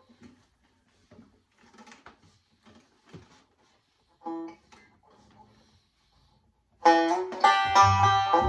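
A few faint knocks and a single short plucked note, then near the end a plucked-string band suddenly starts playing a lively country tune.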